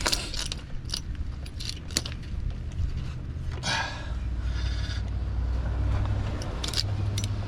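Metal clinks and knocks of hand tools and brake parts during rear drum brake work, with a short scrape partway through, over a steady low hum.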